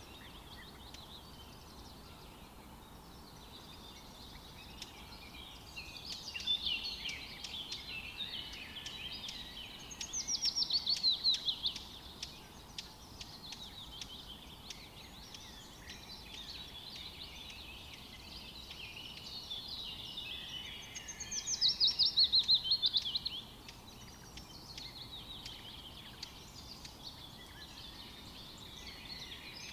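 Several forest songbirds singing together in a steady chorus of chirps and warbles. Twice, once about a third of the way in and again after two-thirds, one bird sings a louder two-second song made of rapid repeated falling notes.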